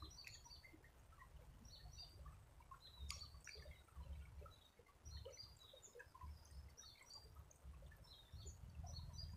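Near silence, with faint scattered chirps of distant birds over a faint low rumble that comes and goes.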